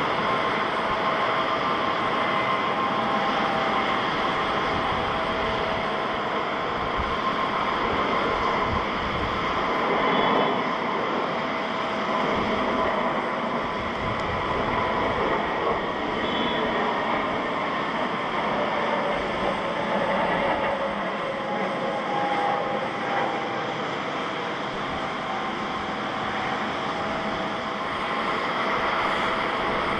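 Airliner jet engines running with a steady rush and faint whine, swelling slightly about ten seconds in.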